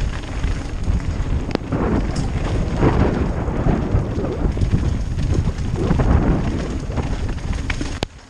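Wind buffeting the camera microphone and tyres rumbling over a rough trail as a mountain bike is ridden, with scattered clicks and knocks from the bike. It drops away abruptly near the end.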